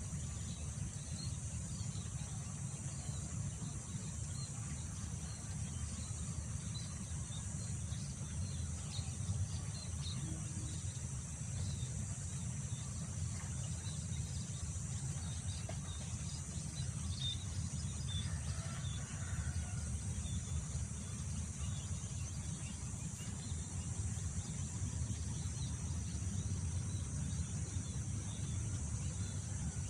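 Wind rumbling on the microphone under a continuous high drone of insects such as crickets, with scattered faint bird chirps.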